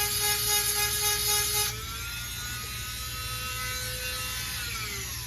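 Dremel rotary tool with a 7/32-inch grinding stone whining as it grinds a chainsaw chain's cutter, then, a little under two seconds in, lifted off and running free more quietly at a slightly higher pitch. Near the end it is switched off and winds down, the whine falling in pitch.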